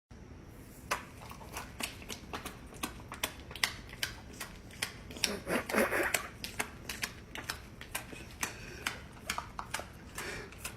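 Irregular quick clicks and taps, several a second, with a louder, longer noisy sound about five and a half seconds in.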